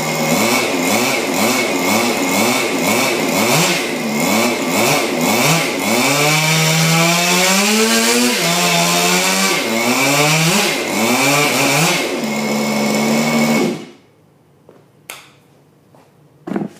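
Go-ped's GP290 two-stroke engine breathing through its stock muffler, revved in quick repeated blips, then held at higher revs with a wavering pitch. It cuts off suddenly about 14 seconds in, followed by a couple of short clicks.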